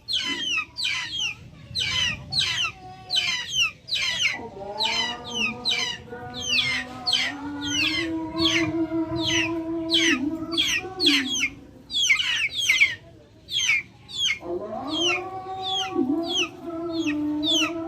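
Backyard chickens and chicks calling: rapid high, falling peeps and chirps, about three or four a second, run throughout. Twice, a long, drawn-out pitched call is held for several seconds, dipping briefly before it ends.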